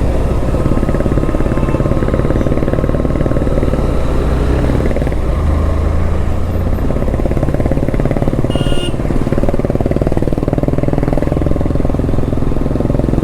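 Motorcycle engine running steadily under way, climbing a hairpin hill road. A brief high-pitched beep cuts in about two-thirds of the way through.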